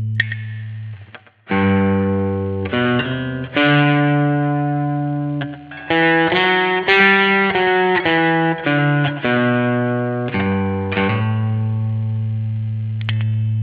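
1982 Vantage VE-550 electric guitar playing a single-note melodic line through an amp with effects. Long held notes open and close the phrase, with a quicker run of notes in the middle.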